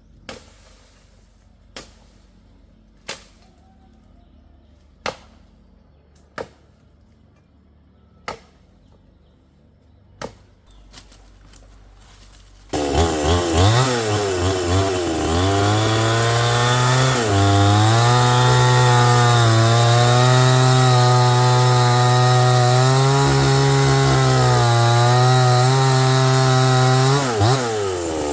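Sharp single knocks about every one to two seconds, then about halfway through a chainsaw starts up and runs loudly, its pitch dipping and recovering several times.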